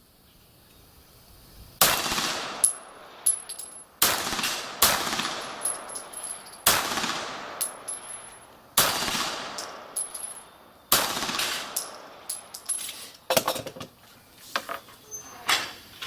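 Beretta 92G Elite Compact 9 mm pistol firing five single shots about two seconds apart, each with a long echo trailing off. Fainter sharp cracks and metallic clinks come between the shots and in a cluster near the end.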